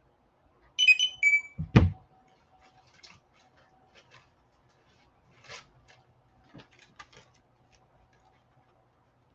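Short electronic alert chime of a few quick beeps, ending on a lower note, then a single heavy thump about two seconds in and faint scattered handling clicks.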